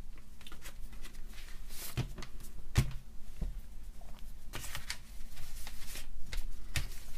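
Hand polishing a plastic tool housing with a cloth and Novus No. 1 plastic polish: soft rubbing and wiping, broken by a few light knocks and clicks as the housing is handled, the sharpest about three seconds in.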